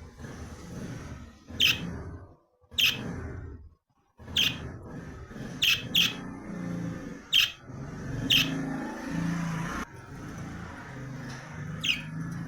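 A bird chirping repeatedly: short, sharp, high chirps about a second or two apart, over a low rumbling background noise.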